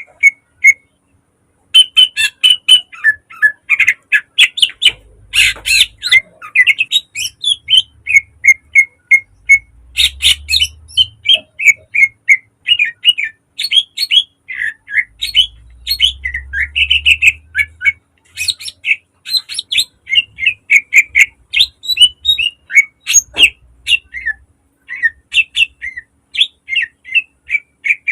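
Green leafbird (cucak ijo) singing a fast, dense song of rapid chirps and sharp notes, with a brief pause about a second in.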